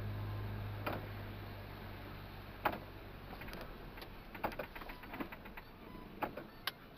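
A low steady hum that fades away over the first two or three seconds, then scattered sharp clicks and knocks at uneven intervals.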